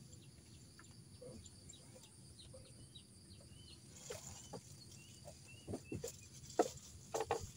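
Faint short high bird chirps, with a few soft clicks and knocks in the last couple of seconds.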